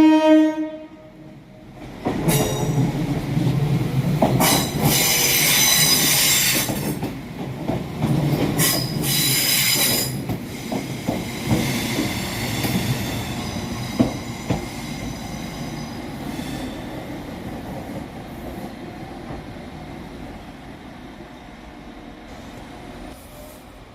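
A brief horn toot right at the start, then a Northern Ireland Railways Class 4000 diesel multiple unit running past with a steady rumble. Its wheels squeal in two spells, and the sound fades away steadily after that.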